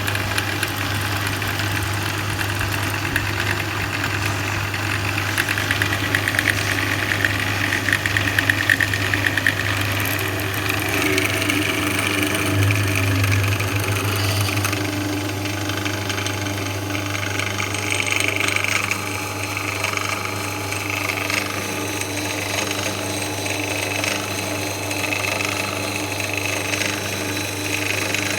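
Einhell TE-BD 750 E drill press running steadily, with a constant motor hum. A higher whine over the hum shifts in pitch a couple of times.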